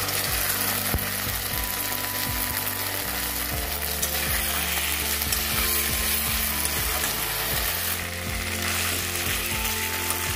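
Diced potatoes and onion sizzling in oil in a metal karahi while a wet poppy-seed, garlic and green chilli paste is stirred in. A metal spatula scrapes and clicks against the pan at irregular intervals.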